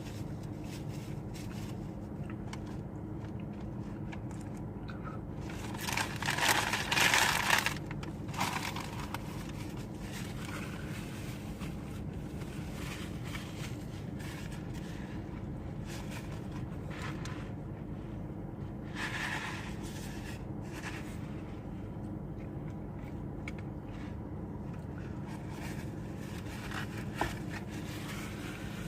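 Close-miked eating: chewing and crunching on a green chili cheeseburger and onion rings, over a steady low hum. A loud scraping rustle comes about six seconds in, and a smaller one near nineteen seconds.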